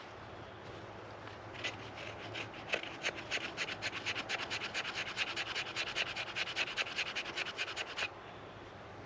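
A quick, even run of scraping strokes, about five a second, starting about one and a half seconds in and stopping abruptly near the end.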